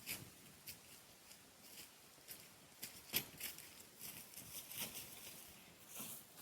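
Dry twigs and brush crackling and snapping in irregular light clicks, the sharpest snap about three seconds in.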